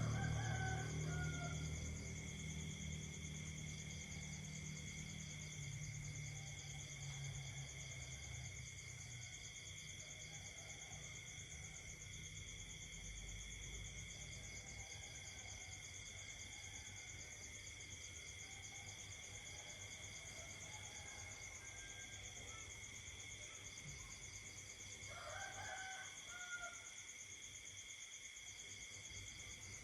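Night insect chorus: steady, high, overlapping trilling of crickets and katydids. A low rumble fades out over the first several seconds, and a louder animal call stands out twice, right at the start and about 25 seconds in.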